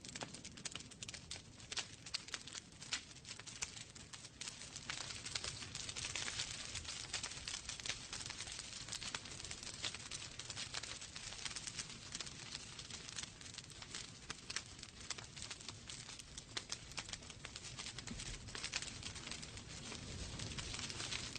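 Wood fire burning in a fireplace: a steady hiss with many sharp pops and crackles, irregular and continuous.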